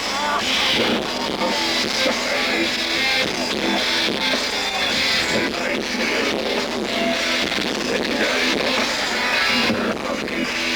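A live industrial metal band playing loud distorted electric guitars and drums. The recording is thin, with little bass.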